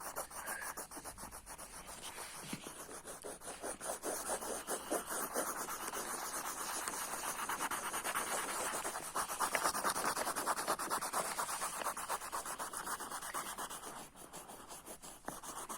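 Colouring pens scribbling fast back and forth across the paper of a colouring book, a steady run of rapid scratchy strokes that grows a little louder past the middle and eases near the end.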